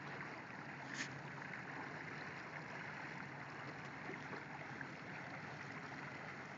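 Steady wash of river water and wind on an open boat, with a faint low steady hum underneath and a single short click about a second in.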